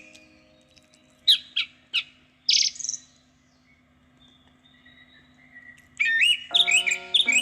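Bird chirping: three quick high descending chirps and a harsher call in the first three seconds, then a pause. More chirping comes in near the end, with soft sustained musical tones under it.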